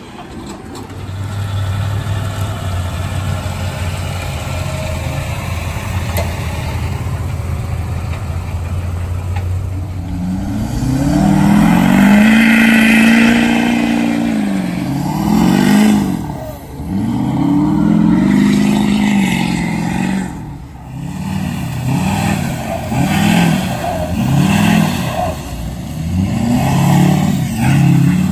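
Pulling truck's engine running steadily low for about ten seconds, then revving hard. Its pitch climbs and falls in one long sweep, then in a string of quicker rev swells about one to two seconds apart as the throttle is worked during the pull.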